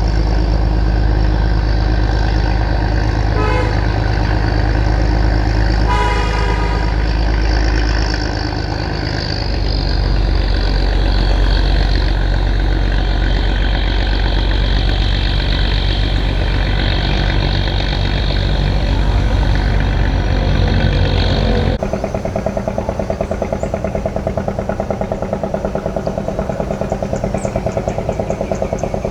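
Boat engine running steadily, with two short horn toots a few seconds in. About two-thirds of the way through, the sound cuts to a different engine running with a fast, even chugging beat.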